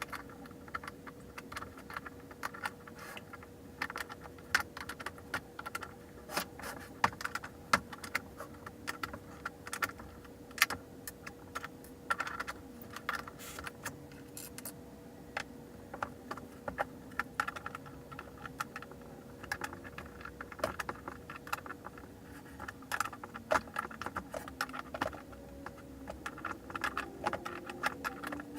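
Skateboard hardware being worked by hand: a stream of irregular small metallic clicks and clinks, as of a skate tool on the truck nuts and bolts and loose parts knocking together, over a faint steady hum.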